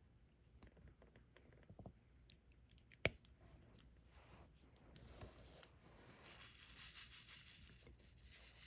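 Small plastic clicks and taps of diamond painting, with one sharper click about three seconds in. From about six seconds a louder rustling rattle runs to the end.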